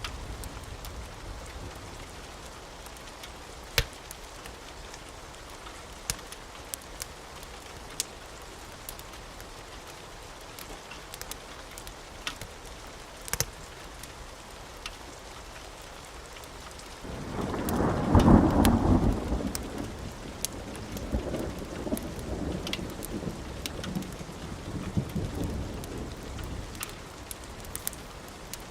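Steady rain with scattered sharp pops from a crackling wood fire. A little past halfway a roll of thunder swells in, loudest a second or so later, then rumbles on more softly for several seconds.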